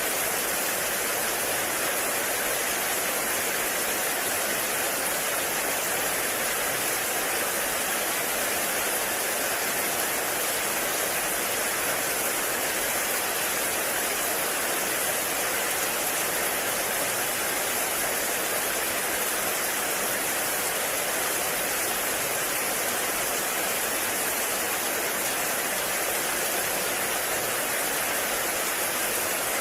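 Heavy rain falling steadily in a forest, an even, unbroken rush of water noise.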